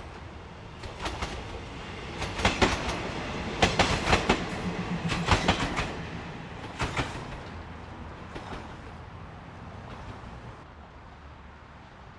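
THN diesel railcar set passing, its wheels clacking over rail joints in quick pairs under a low rumble. The clacks thin out after about seven seconds and the rumble fades away as the train moves off.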